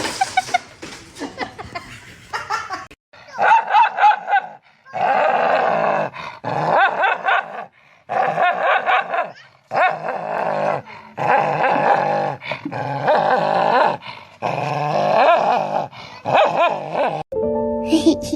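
A dog vocalising: a string of wavering, whining yips and howl-like calls, each lasting a second or two, with short breaks between.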